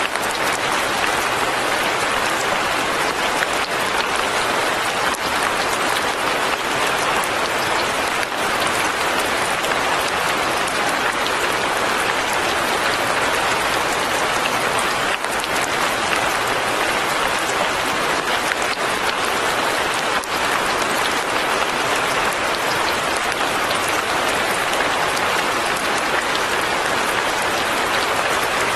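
Steady rain falling on surfaces, an even patter of drops with no change in intensity.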